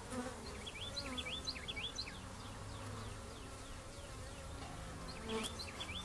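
Honey bees buzzing around an opened hive, a wavering hum that goes on steadily. Two runs of repeated short high chirps come through, about half a second in and again near the end.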